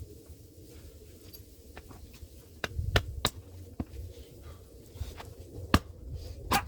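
Hand axe striking firewood: a few sharp, irregularly spaced wooden knocks, the loudest about three seconds in and near the end.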